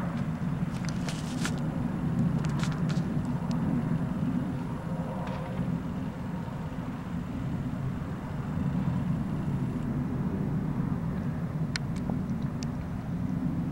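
Steady low roaring rumble from the sky, wavering slightly in strength, of unidentified origin, with a few faint clicks over it.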